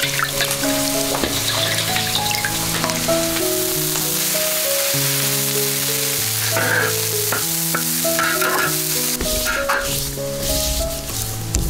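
Chopped greens and seasonings sizzling in oil in a large iron wok, a steady hiss, under background music with a slow melody.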